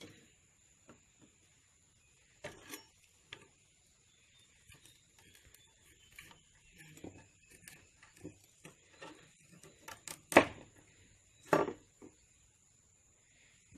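A scattered series of light clicks and knocks, like small parts being handled and fitted together, with two louder knocks near the end.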